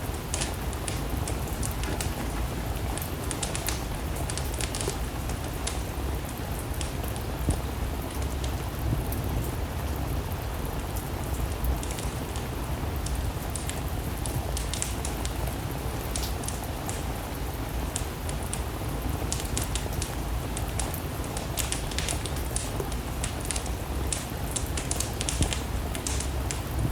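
Steady rain mixed with a wood-burning fire crackling, the crackles coming as scattered sharp pops that bunch together a few seconds in and again in the second half.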